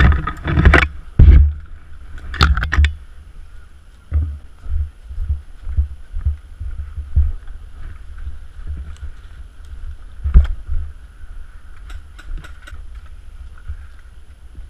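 Dull thumps and knocks of movement and gear handling picked up by a body-worn GoPro action camera. There are a few loud sharp knocks near the start and again around two and a half seconds, then a run of softer thumps about two a second, like walking steps.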